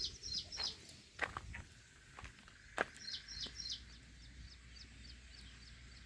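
Birds calling in short runs of quick, high chirps, once near the start and again from about three seconds in. A few sharp clicks fall between them, the loudest a little before the three-second mark.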